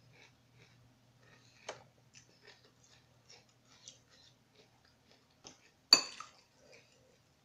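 Close-up chewing of a mouthful of Fruity Pebbles crispy rice cereal: many small crackling, crunching mouth sounds. A single sharp click about six seconds in is the loudest sound.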